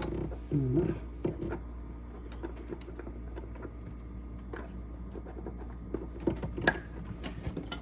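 Scattered light clicks and taps of small parts being handled, over a steady low hum, with a brief voice sound about half a second in.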